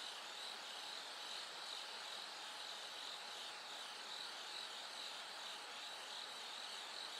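Bell crickets chirping steadily in a high-pitched chorus over a faint, even hiss.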